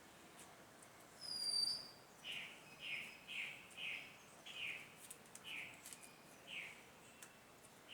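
Bird calls: one clear whistled note about a second and a half in, then a run of about seven shorter, lower calls, roughly two a second at first and spacing out toward the end.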